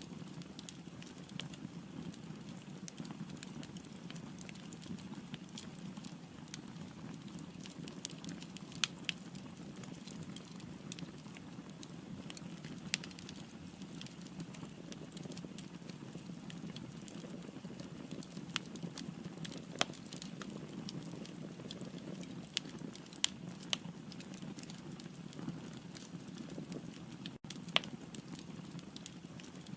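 Firewood burning in a fireplace: a steady low rush of flame with frequent sharp crackles and pops, a few of them louder than the rest.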